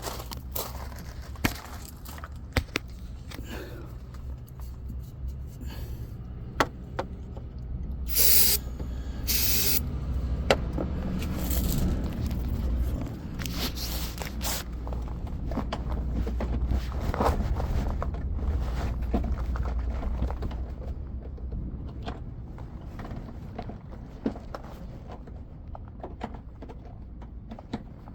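Two short hissing sprays from a can of Johnsen's starting fluid, about eight and nine and a half seconds in, used because the truck will not start on its own. Scattered clicks and knocks from handling run on around them, with a low rumble through the middle.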